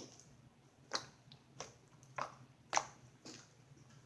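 Sticky homemade slime being squeezed and poked by hand, giving short sharp clicks and pops about every half second.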